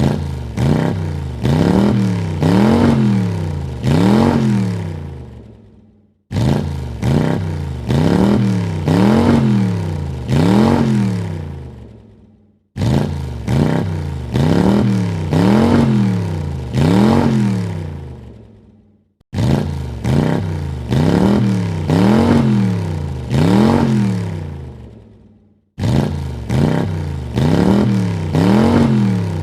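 Car engine revved in quick blips, four or five rises and falls of pitch per burst, each burst fading out. The same burst repeats about every six seconds.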